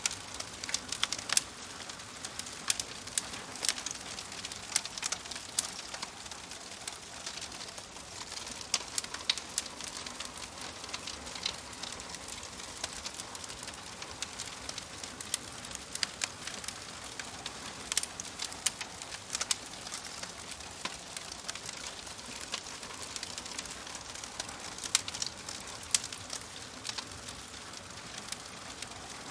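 Fireplace fire crackling: irregular sharp pops and snaps over a steady soft hiss.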